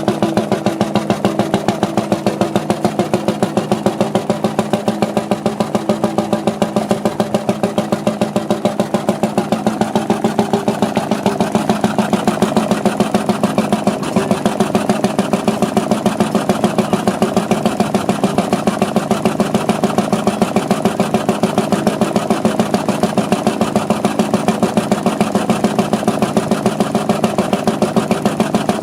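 Single-cylinder hot-bulb heavy-oil stationary engine running steadily, its firing strokes making an even, regular beat.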